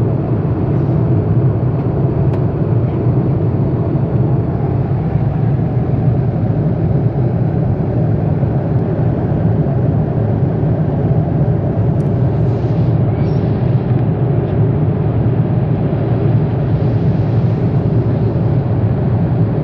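Airliner cabin noise in flight: the steady, deep drone of the engines and rushing air, unchanging throughout.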